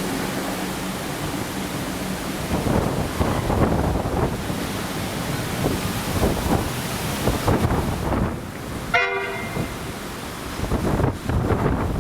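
Suburban electric train running through, its wheels clattering over the rail joints, with a short horn toot about nine seconds in.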